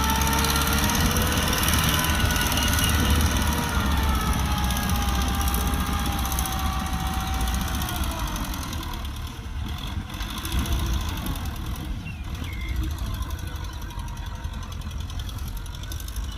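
Kubota tractor's diesel engine running steadily, its whine gliding lower and the level easing off about halfway through.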